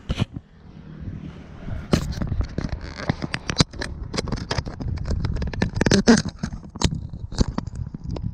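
Irregular clicks and knocks over a low rumble, denser from about two seconds in: close handling noise.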